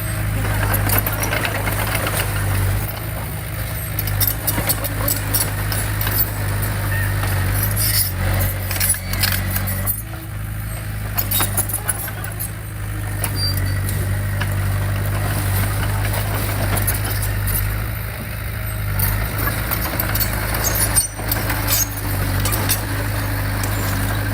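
Diesel engine of heavy earthmoving equipment running steadily under load, with frequent short metallic clanks and squeaks throughout.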